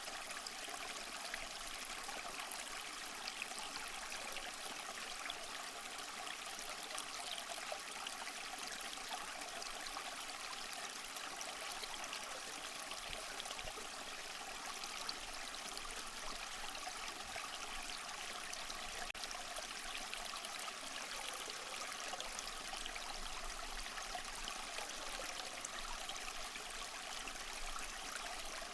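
Small waterfall trickling and splashing over mossy rocks: a steady, even rush of water, mostly high-pitched, with little low rumble.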